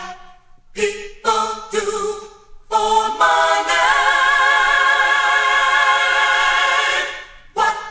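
A group of voices singing in close harmony with no instruments: a few short sung notes, then one long chord held for about four seconds that fades near the end.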